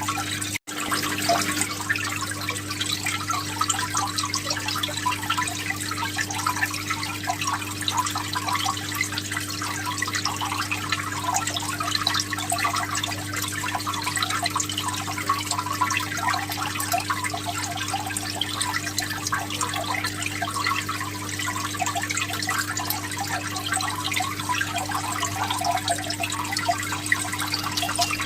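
Running water trickling and splashing steadily over a constant low hum; the sound cuts out for an instant just after the start.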